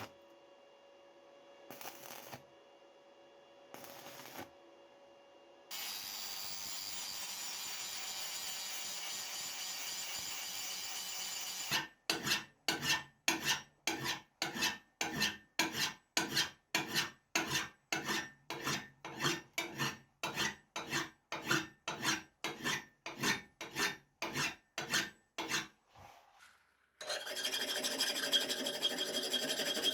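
Hand filing on metal, a rasping scrape. It comes first as a few short strokes, then as a steady scrape, then as even back-and-forth strokes about two a second for some fourteen seconds, and steady scraping again near the end.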